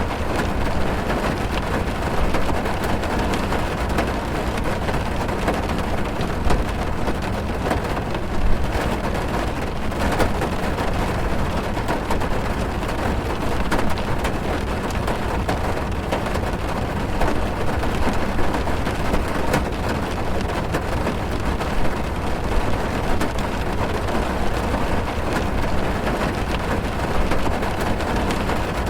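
Heavy rain drumming on a car's roof and windows, heard from inside the cabin as a steady dense patter with scattered sharper drop hits.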